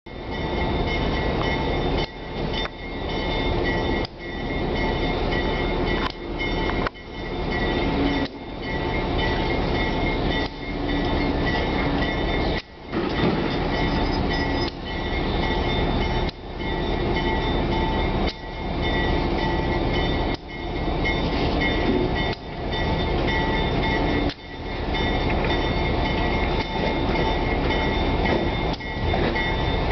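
Diesel locomotive leading a Norfolk Southern work train slowly past at a grade crossing, its engine running as the train rolls by. Loudness dips sharply and recovers every couple of seconds.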